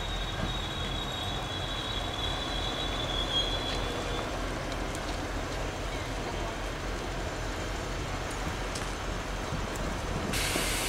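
A diesel multiple unit rolling slowly to a stop at a station platform, with a low engine and running rumble. A thin, high, steady brake squeal fades out about four seconds in, and a short hiss comes near the end.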